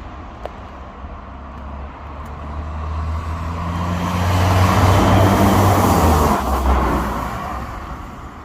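BMW 520d's 2.0-litre four-cylinder diesel with the rear silencer deleted, heard from outside as the car drives by. The engine note holds a fairly steady pitch, swells to a peak around the middle, then fades away.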